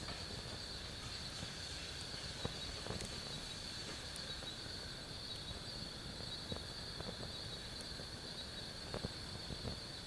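A steady, high-pitched chorus of night insects, with a wood fire in a NatureHike fire pit crackling now and then in short, sharp pops.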